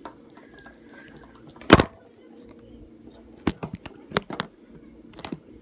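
A few sharp knocks and clicks of objects being handled and set down, the loudest about two seconds in and a quicker cluster later.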